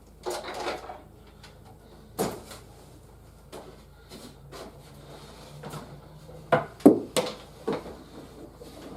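Toys and packaging being handled: scattered knocks and short scraping rustles, with a cluster of three or four sharper knocks about six and a half to eight seconds in.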